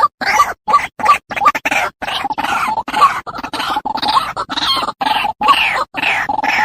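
White-breasted waterhen calling: a continuous run of harsh, croaking notes, a few a second, separated by brief gaps.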